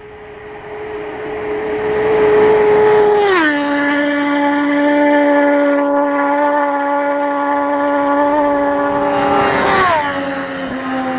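Two sport motorcycles passing fast one after the other, each engine's steady, loud note dropping sharply in pitch as it goes by.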